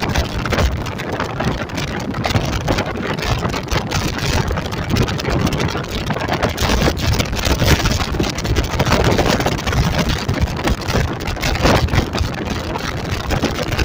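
Car driving at road speed, heard from inside: a steady, loud rush of road and wind noise.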